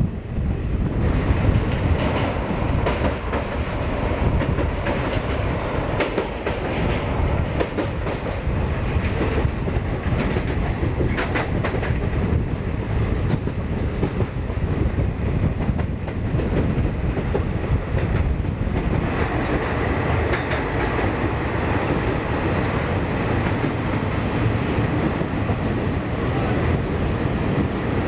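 Passenger train running at speed: a steady rumble of wheels on track with clicks and clatter as the wheels cross rail joints, heard from the coach's open door.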